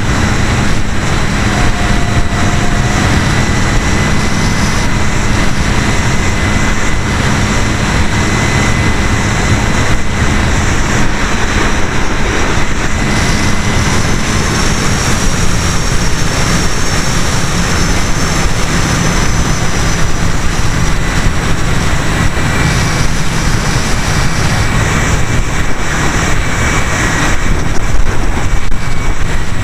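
Electric motor and propeller of an E-flite Apprentice RC trainer plane running steadily in flight, heard from a camera mounted on the airframe, with heavy rushing wind noise. The motor's pitch drops slightly about halfway through.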